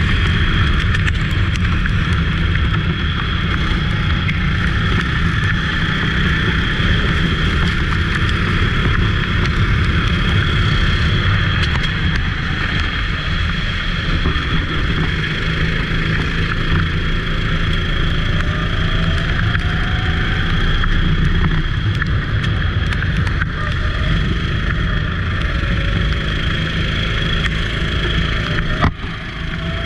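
Racing go-kart engine running under way on a wet track, holding a fairly steady note under a continuous rushing noise, with a brief drop and a sharp knock near the end.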